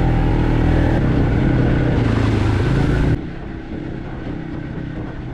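Small off-road engine running steadily under way. About three seconds in the sound drops suddenly, becoming quieter and duller, while the engine keeps running.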